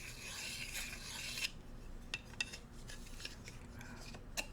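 Bamboo cooking utensils scraped and rubbed with a dry, rasping scratch for about a second and a half, then a few light wooden taps and clicks.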